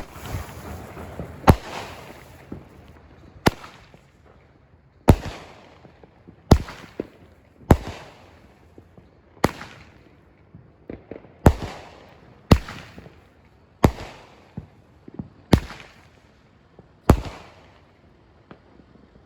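Cutting Edge 'Political Chaos' 200-gram six-shot fireworks cake firing: about a dozen sharp bangs, one every one to two seconds, each dying away in a short echo.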